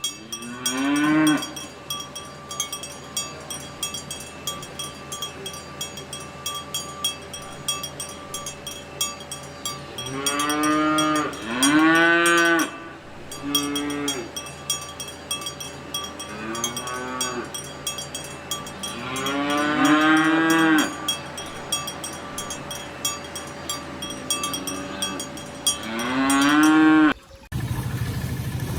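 Cattle mooing: a series of long, drawn-out calls, some paired close together, over a fast faint clicking in the background. The sound cuts off abruptly near the end.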